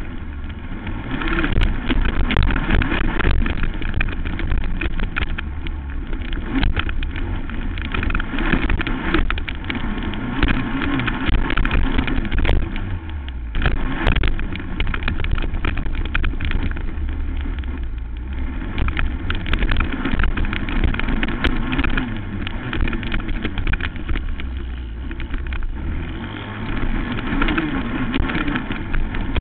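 Racing quad (ATV) engine running hard, its pitch rising and falling with the throttle, with frequent sharp knocks and rattles over a heavy low rumble.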